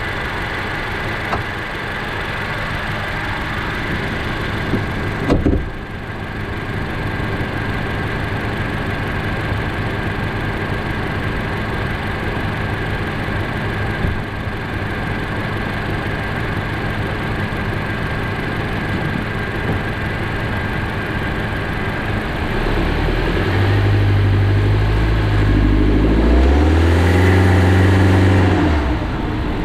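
Honda Jade's 1.5-litre turbo four-cylinder heard from inside the engine bay, running steadily at first with one short knock about five seconds in. Near the end it pulls away and the engine note grows loud and rises in pitch, then drops off. This strong pull from low speed is when a rustling, hissing 'shuru-shuru shaa' noise appears, which the owner suspects is a slipping accessory belt or a failing pulley bearing.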